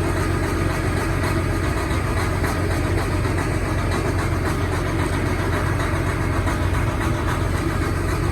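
Detroit Diesel Series 60 12.7-litre inline-six diesel idling steadily just after a cold start.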